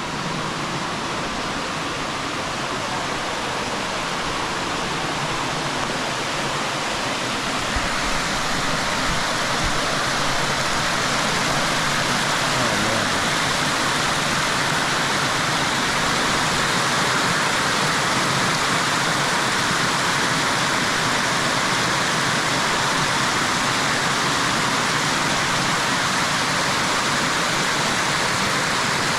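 Waterfall rushing: a steady wash of falling water that grows a little louder about eight seconds in.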